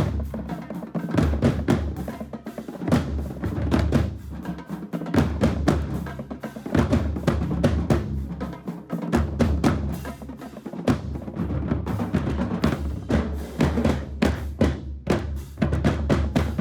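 Marching band drumline playing, with rapid snare strokes over heavy bass drum hits.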